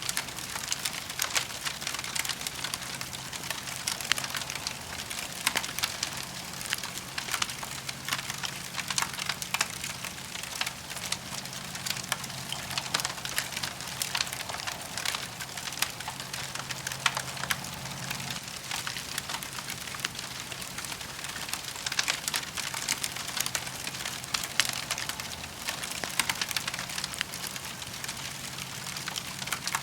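Campfire burning, with a dense, irregular crackling of small snaps and pops from the burning wood.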